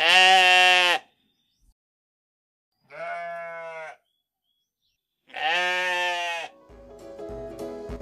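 A sheep bleating three times, each call about a second long; the first is the loudest and the second the quietest. A short music jingle starts near the end.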